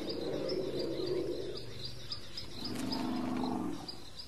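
A bird repeating a short, high chirp about three times a second over the bush ambience, with a lower pitched sound swelling briefly about two and a half seconds in.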